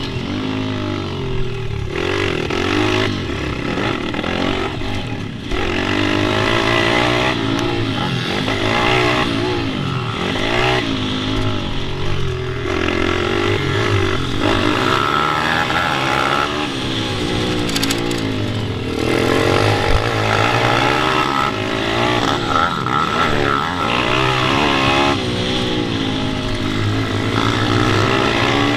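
Pit bike engines on a track, revving up and falling back over and over as they accelerate, shift and brake through the corners.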